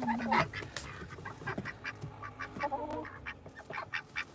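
Domestic ducks quacking in a run of short, low calls.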